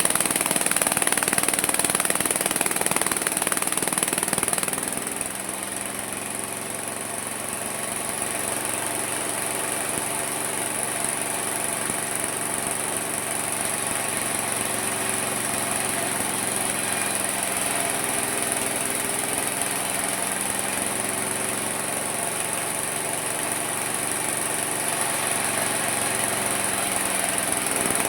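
Small engine of a homemade mini sawmill running. It is louder and rougher for about the first four seconds, then settles into a steadier, quieter run, and picks up slightly again near the end.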